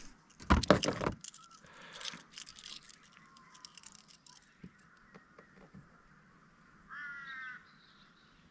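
A short loud clatter about half a second in, then near the end a single drawn-out crow caw.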